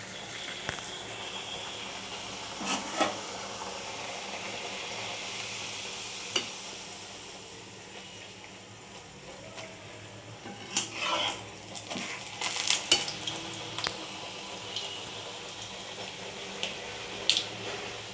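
Luchi frying in hot oil with a steady sizzle, broken by several sharp clatters of a metal utensil against the frying pan, loudest in a cluster about eleven to thirteen seconds in.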